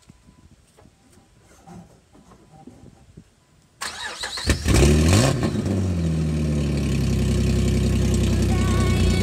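2003 Jeep Wrangler cold start: after a few quiet seconds the starter cranks briefly, the engine catches about four and a half seconds in and flares up in revs, then settles into a steady idle.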